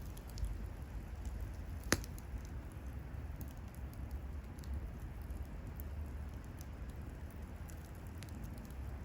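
Wood bonfire crackling, with scattered small pops and one sharp, louder pop about two seconds in, over a steady low rumble.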